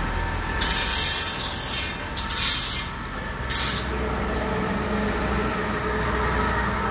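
Compressed-air paint spray gun hissing in three bursts, a long one, a shorter one and a brief one, as the trigger is pulled and released over a steady machine hum.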